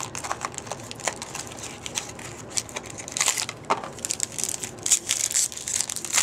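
Trading-card pack wrapper crinkling as it is handled, with irregular crackles, thicker about three seconds in and again near the end.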